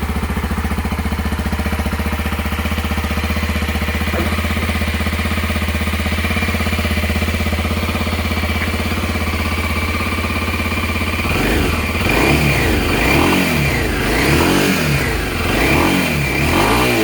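Kawasaki Ninja 250SL's single-cylinder engine running through its stock exhaust, idling steadily, then revved several times in short blips from about eleven seconds in.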